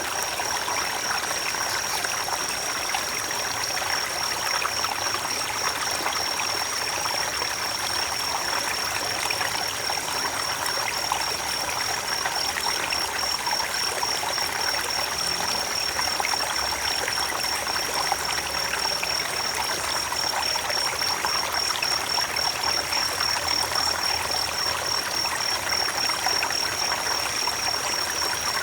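Creek water running over rocks: a steady rushing and trickling. Above it runs a steady, high-pitched, finely pulsing trill.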